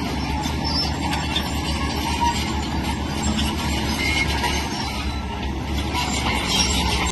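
Tracked earthmoving machinery at work: a diesel engine running with a steady low hum under a dense metallic clatter of steel crawler tracks.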